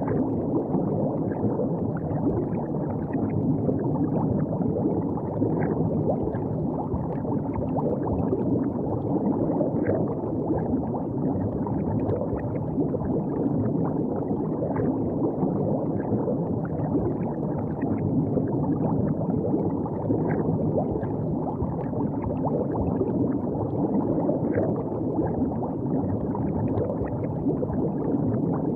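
River water flowing and gurgling steadily, a low, even watery rush.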